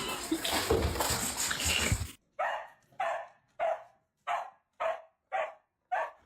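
A dog barking in a steady series, seven single barks about two-thirds of a second apart, starting about two seconds in. Before the barks comes a loud, noisy stretch that cuts off suddenly.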